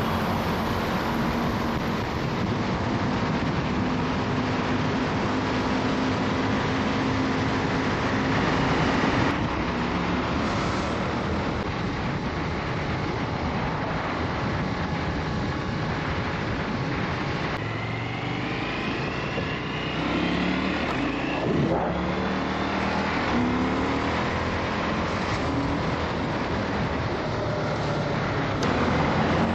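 Motorcycle engine running on the move, its pitch rising and falling as it is revved and shifted through the gears, over a steady rush of noise.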